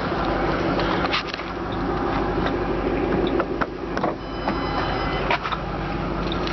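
A 2006 Ford Mustang GT's 4.6-litre V8 idling steadily, with scattered clicks and knocks of hands working the car's hood, doors or controls.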